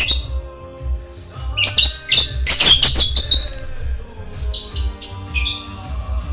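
Parrot giving a rapid run of short, shrill squawks and chirps about a second and a half in, then a second shorter run near the five-second mark, over background music with a steady beat.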